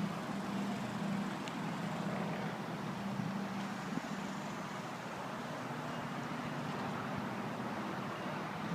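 A vehicle engine running steadily, a low hum over outdoor background noise.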